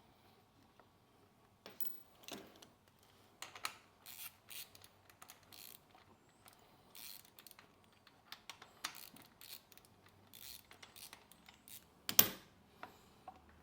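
Metal hand tools working on the bike's front brake rotor: a string of short clicks, clinks and scrapes, with one loud metallic clank near the end.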